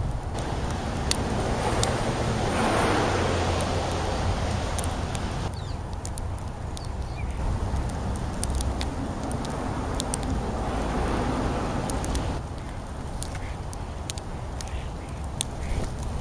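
Birds calling at a feeding spot over a steady low rumble, with many scattered sharp clicks.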